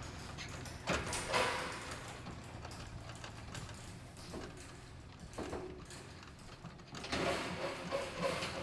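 Scattered mechanical clunks and rattles, with a denser stretch of clattering near the end, over a steady low rumble.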